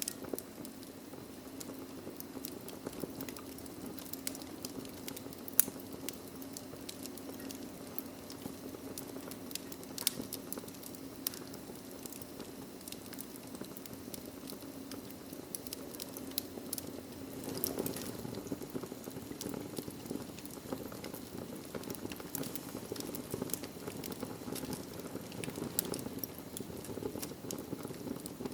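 Wood fire burning in a fireplace: a steady low rush of flames with frequent sharp crackles and pops at irregular intervals, a little louder and busier from a little past the middle onward.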